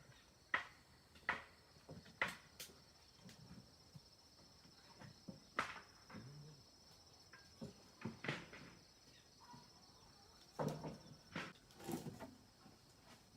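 Scattered sharp knocks and clicks at irregular intervals, over a faint steady high-pitched whine.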